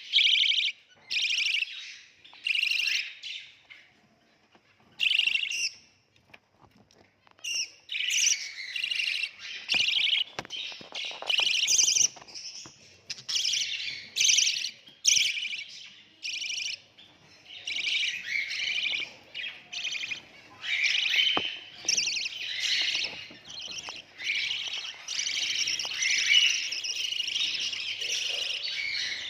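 Budgerigar chicks chirping in raspy, rapidly repeated calls, in short separate bouts at first, then almost without pause from about eight seconds in.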